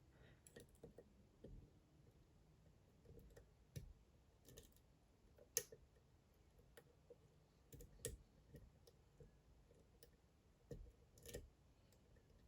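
Faint, irregular small clicks and ticks of a lock pick working the pins inside a Dom IX Twinstar dimple lock, lifting pins one by one. The sharpest click comes about halfway through.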